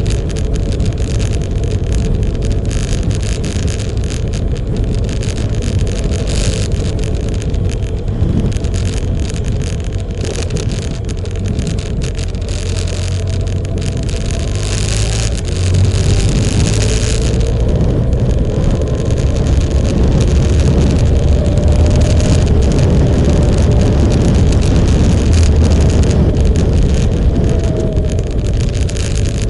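Motorcycle engine running while riding, its pitch drifting up and down with speed under a heavy low rumble; it gets louder about halfway through.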